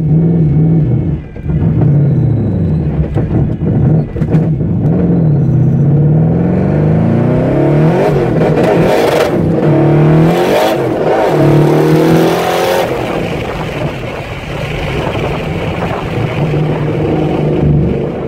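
Twin-turbo V8 of a C5 Corvette fixed-roof coupe, heard from inside the cabin, accelerating hard on 8 psi of boost. Its pitch climbs and drops back through several gear changes. Later a loud rushing noise builds with the revs, then cuts off suddenly about 13 seconds in, leaving a lower, steady drone.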